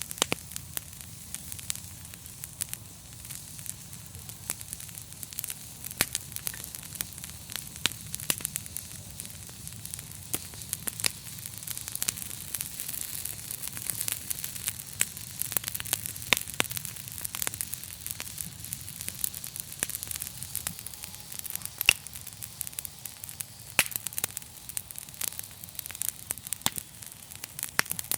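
Wood fire burning in a fireplace, with many sharp, irregular crackles and pops over a steady hiss and a faint low rumble.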